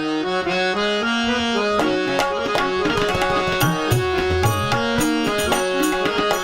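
Instrumental music with a reed-keyboard melody, most likely a harmonium, over tabla; deep bass-drum strokes of the tabla come in about halfway through.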